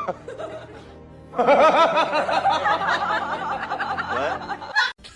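Music with a snickering, laughing voice over it. The laugh sets in about a second and a half in and lasts some three seconds, its pitch wobbling quickly.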